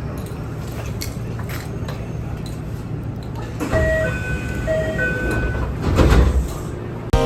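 Kintetsu electric train interior: a steady low rumble with light rattles and clicks. About four seconds in, a two-note electronic chime sounds twice, and a heavy low thud follows around six seconds in. Music starts right at the end.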